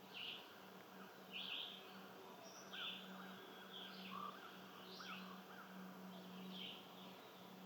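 Faint bird chirps, short calls repeating about once a second, with a few softer chirps from another bird between them. A steady low hum runs underneath.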